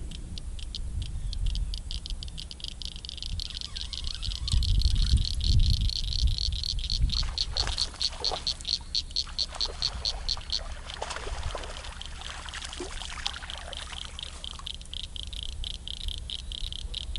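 A small creature's rapid pulsed call, high-pitched and evenly repeating several times a second, with wind rumbling on the microphone early on and some scattered rustling noises in the middle.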